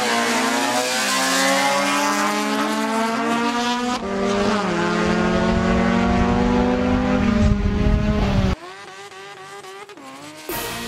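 Race car engine at high revs, its pitch gliding and then held steady for several seconds. The sound breaks off abruptly about 8.5 seconds in, leaving a much quieter stretch.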